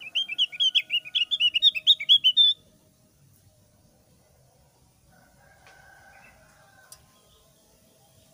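Javan grey-throated white-eye singing a rapid chattering run of short, high chirps, roughly eight notes a second, that stops abruptly about two and a half seconds in. A single faint click follows near the end.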